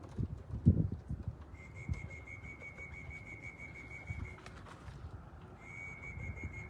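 Racing pigeons at the loft: a cluster of low flutters and soft thumps in the first second, then a high, evenly pulsing whistle-like tone that runs for a few seconds, stops, and starts again near the end.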